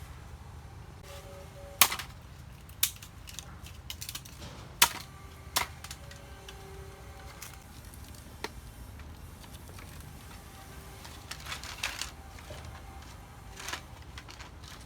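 A few sharp knocks or clicks at irregular intervals, with a small cluster of them near the end, over a low steady background.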